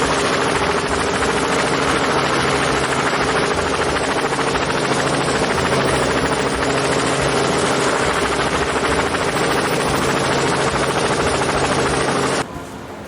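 Helicopter running steadily, rotor chop and engine together at a constant level, cutting off suddenly near the end.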